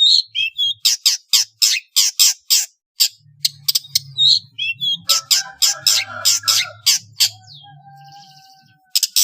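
Long-tailed shrike (pentet) singing a fast series of harsh, rasping chatter notes, about four or five a second, mixed with short whistled slurs, in the mimicry-filled song of a bird in full voice.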